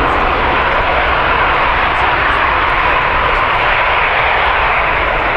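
Jet airliner engines, a loud, steady rushing noise with a low rumble underneath.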